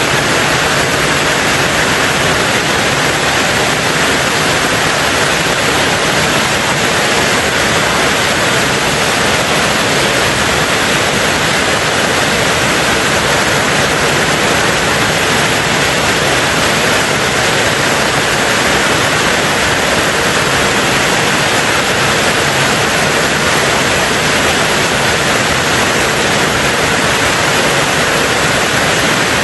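Heavy rain on a tin roof: a dense, steady rush with no individual drops standing out and no let-up.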